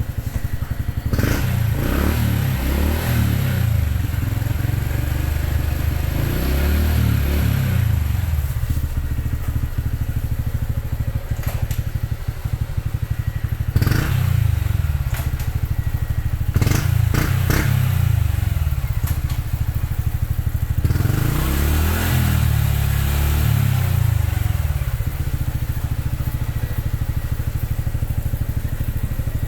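Honda Cross Cub 110's single-cylinder four-stroke engine idling through a Yoshimura aftermarket exhaust, revved about five times, each rev rising and dropping back to idle.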